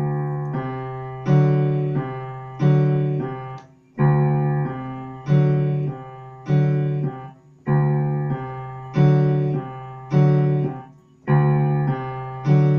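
Piano playing a short chord-progression accompaniment four times over, in the half-broken chord style with bass: a bass note with the chord tones played partly apart, moving through a secondary dominant seventh. Each chord strikes and then decays, about one every second and a bit.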